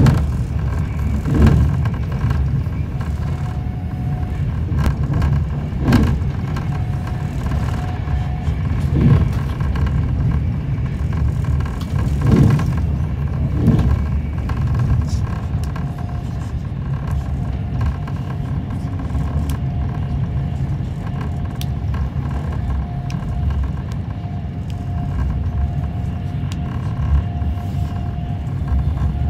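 Electric passenger train running at speed, heard from inside the carriage: a steady low rumble of wheels on track, with several louder knocks in the first half and a faint steady whine later on.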